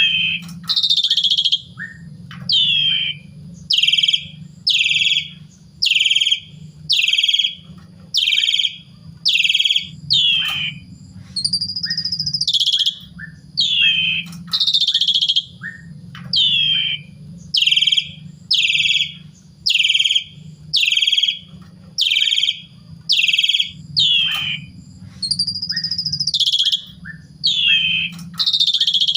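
Pied starling (jalak suren) calling loudly over and over, about once a second, each call a harsh note sliding down in pitch, over a low steady hum.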